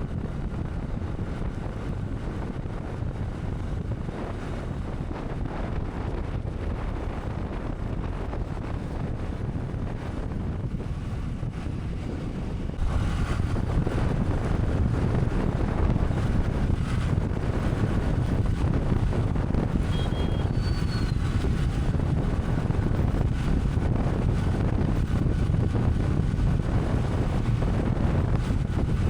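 Wind rushing over the microphone on a moving motorcycle, with a steady low rumble of riding. The noise steps up suddenly a little before halfway and stays louder.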